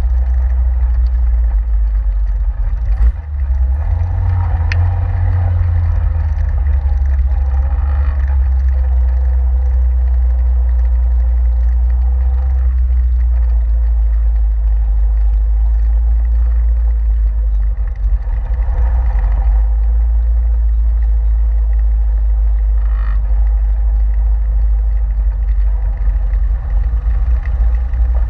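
Caterham 7's engine running steadily at low road speed, heard from inside the open cockpit over a continuous deep rumble.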